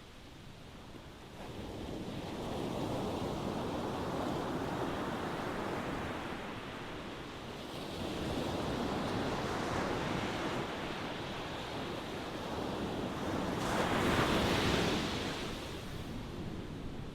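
Ocean waves breaking and washing on a shore, swelling and ebbing in slow surges, the loudest surge about fourteen seconds in.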